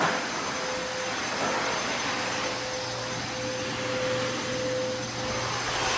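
Concrete floor grinder running together with its dust extractor, a steady whooshing machine noise with a constant hum, as it grinds remaining carpet glue and thinset off a concrete slab.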